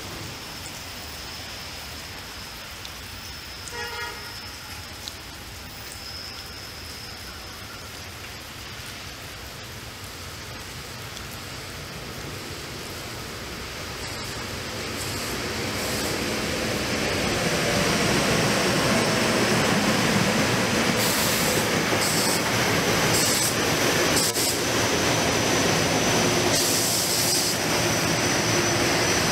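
SEPTA Silverliner IV electric multiple-unit commuter train approaching on the rails, its wheel and rail noise faint at first and swelling over several seconds from about the middle on. It then runs steadily loud as the cars pass close by.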